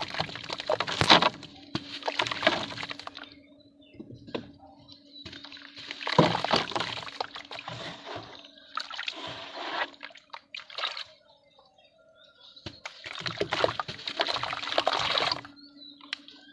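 Lumps of red dirt dipped in water and crushed, giving wet crumbling and sloshing in four bursts with short pauses between them. A faint steady hum runs underneath.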